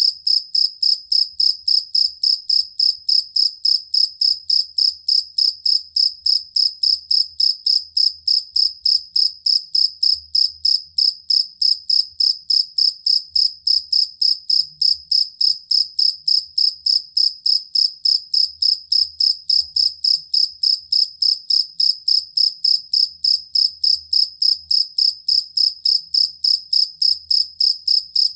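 A field cricket chirping steadily, an even, high-pitched chirp repeated about three times a second without a break.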